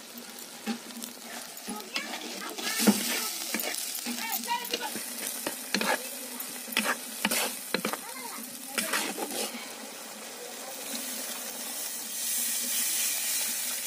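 Tomato-onion masala frying and sizzling in a kadai while a spatula stirs it hard, scraping and clicking against the pan. Near the end, water is poured into the hot pan and the sound turns into a louder, steady hissing sizzle.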